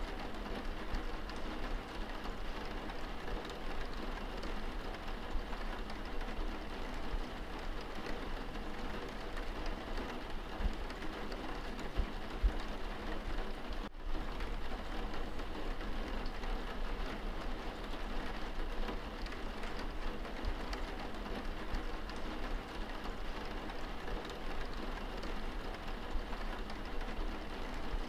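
Steady rain on window glass heard from indoors, an even patter with a few slightly louder drops.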